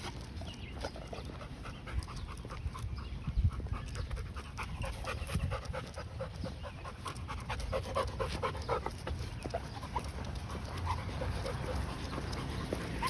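A dog panting steadily, with many short light clicks and rustles scattered throughout.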